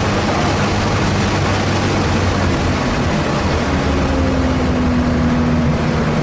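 Car engine pulling hard on a race track, heard from inside the cabin over loud road and wind noise; a steady engine tone comes in about halfway through and holds.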